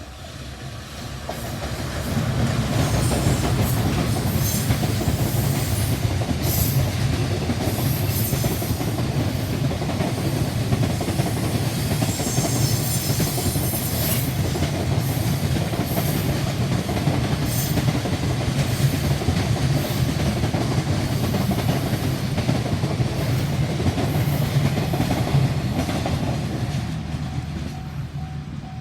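An electric train passing close by on the JR Tōkaidō Main Line: its noise builds over about two seconds, stays loud with the wheels clacking over rail joints for over twenty seconds, then fades near the end. A level-crossing warning bell rings in a steady repeating pattern as the train approaches and again as it goes.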